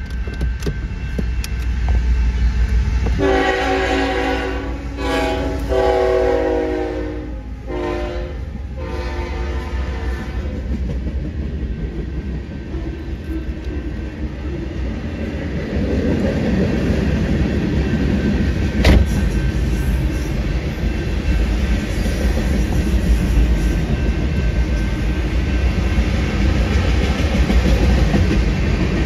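Freight train locomotive sounding its air horn in long blasts starting about three seconds in, then the train rumbling past with steady wheel-on-rail noise that grows louder past halfway, with one sharp clack.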